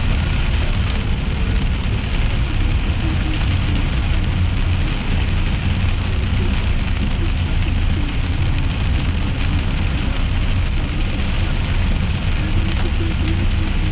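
Heavy rain pattering steadily on a moving car, heard from inside the cabin, over a steady low rumble of the engine and road.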